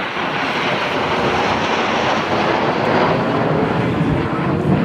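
A jet aircraft's roar as it flies past at an airshow: it swells to a loud, rushing peak, then deepens toward the end as it moves away.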